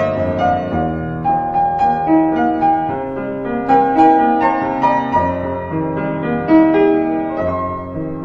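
Gentle solo piano music, notes and chords struck one after another and left to ring.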